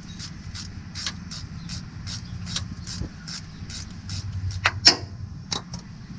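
Hand ratchet wrench clicking as it is swung back and forth on an engine bolt, about three clicks a second, with a couple of louder metallic knocks near the end.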